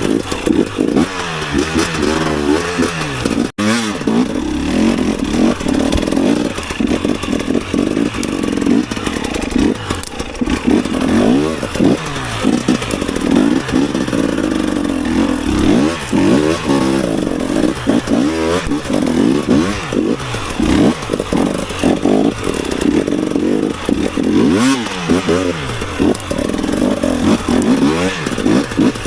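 Dirt bike engine revving up and down in quick, repeated throttle bursts as it is ridden over rough woodland trail, with some rattling and scraping from the bike. The sound cuts out for an instant about three and a half seconds in.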